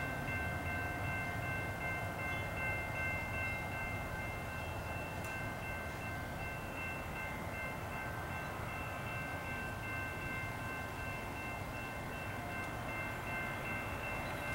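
Low, steady rumble of a distant freight train's diesel locomotives approaching out of sight, with a steady high-pitched ringing of several tones held throughout.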